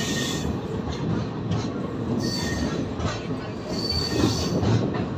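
Passenger train's coach wheels running over the rails, heard from the coach's open window: a steady rumble, with brief high-pitched wheel squeals about two seconds in and again near four seconds.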